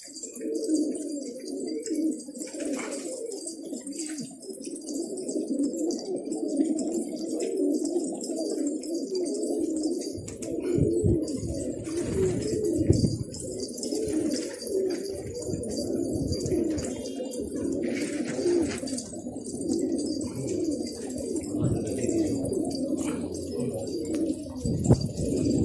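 Many domestic pigeons cooing together, their coos overlapping without a break, with occasional short sharp sounds among them.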